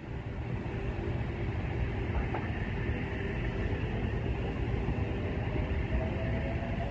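Double-deck electric passenger trains pulling out of the station, a steady rumble of wheels and traction motors. A faint, slightly rising motor whine comes in near the end.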